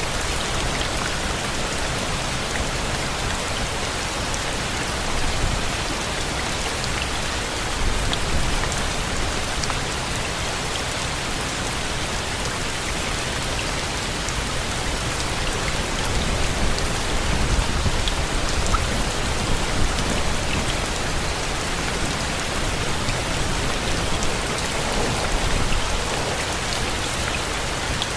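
Steady heavy rain, an even hiss with scattered drops, and a low rumble that swells a few times, strongest in the second half.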